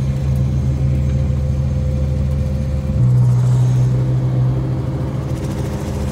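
Twin-turbo Lamborghini Huracán 5.2-litre V10 engine running at low, steady revs, with a slight change in tone about three seconds in.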